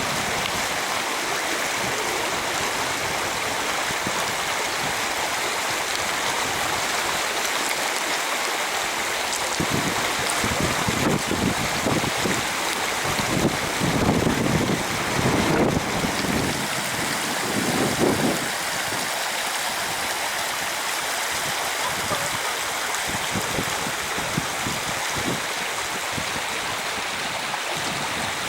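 Steady rush of a fast mountain stream tumbling over rocks. About halfway through there are several seconds of low rumbling knocks on the microphone.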